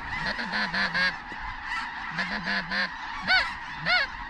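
Snow geese calling: a flock's many overlapping honks, with two louder single honks near the end.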